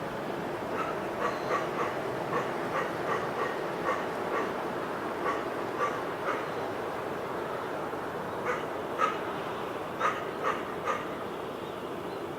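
A dog barking repeatedly in irregular runs of short barks, pausing for about two seconds past the middle before barking again.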